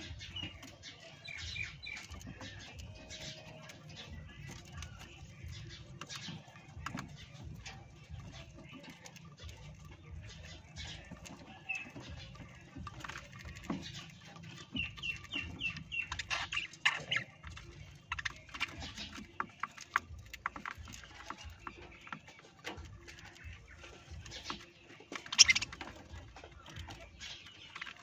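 Parrots chirping and squawking in short calls, among frequent small clicks and taps. About halfway through comes a quick run of repeated chirps, and near the end one loud, shrill squawk.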